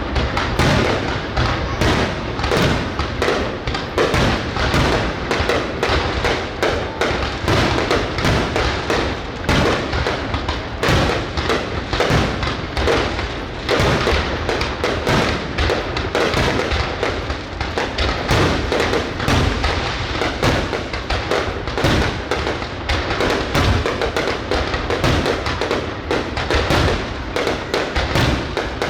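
Fireworks going off in a dense, unbroken barrage of bangs and crackles, many per second.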